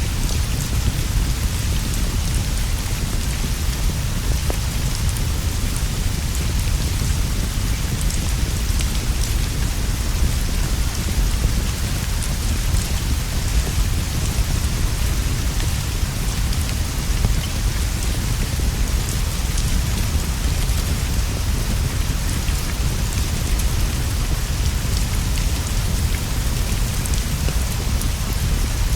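Steady heavy rainfall hissing without a break, over a constant deep low rumble. Faint scattered crackling pops from a wood fire sit in the mix.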